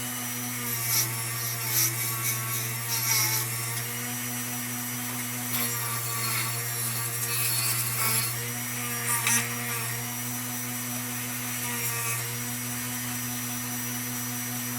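Handheld Dremel rotary tool running at a steady high speed, its bit scratching intermittently against the lantern's metal to strip paint and grime.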